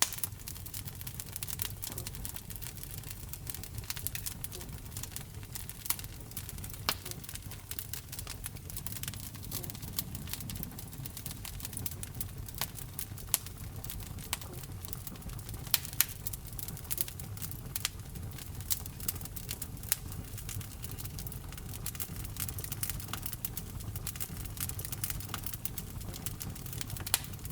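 Fire burning in a fireplace, crackling with a constant run of irregular small snaps and a few louder pops, over a steady low rumble of the flames.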